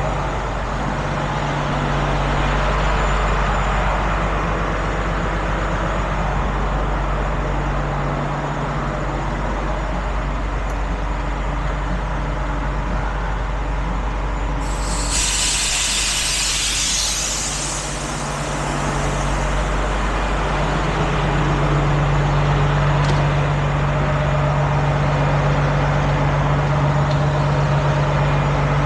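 Tow truck's engine running steadily during close manoeuvring, with a sharp hiss of released air from the air brakes lasting about two seconds, roughly halfway through.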